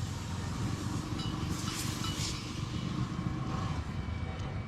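Motorcycle on the move, heard through a lapel mic inside the rider's helmet: a steady low rumble of engine and wind noise, with a few brief faint high tones over it.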